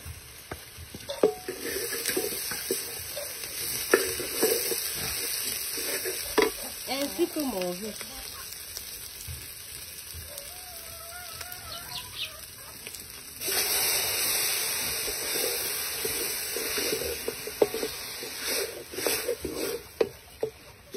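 Onions, ground shrimp and chili frying in hot red palm oil in a metal pot, sizzling steadily, while a wooden spatula stirs and knocks against the pot. The sizzling gets clearly louder about two-thirds of the way through.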